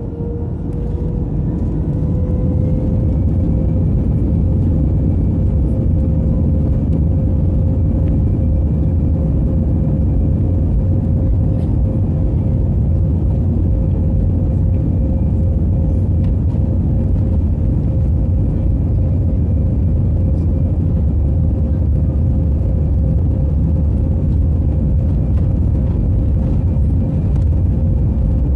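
Airbus A319 jet engines heard inside the cabin: a whine rises in pitch over the first few seconds as the engines spool up, then holds steady over a deep, even rumble.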